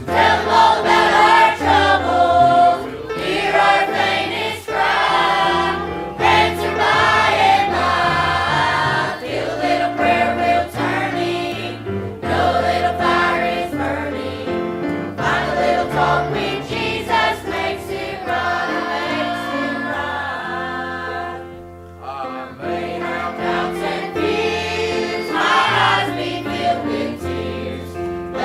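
A choir or congregation singing a gospel hymn with instrumental accompaniment and a steady bass line, with a short pause about 22 seconds in.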